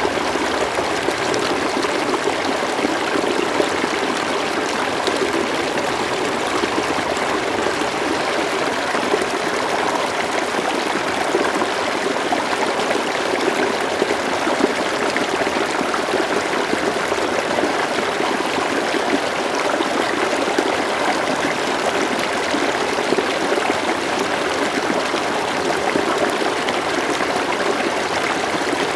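River water flowing steadily, a continuous babbling and rushing that does not change.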